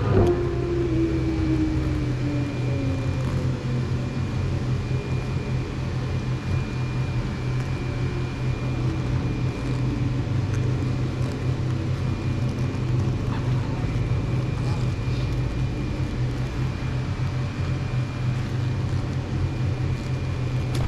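A car's engine running steadily at low revs, with a thin steady high whine over it. In the first few seconds a higher engine note falls away.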